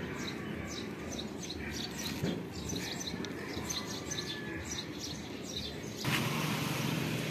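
Small birds chirping, short high chirps repeated about two to three times a second over steady street background noise, fading out after about four seconds. About six seconds in a louder steady rushing noise sets in suddenly.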